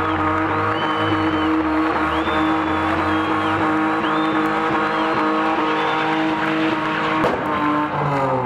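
BMW E30 engine held at high, steady revs during a burnout, with the rear tyres squealing. Near the end the revs drop away.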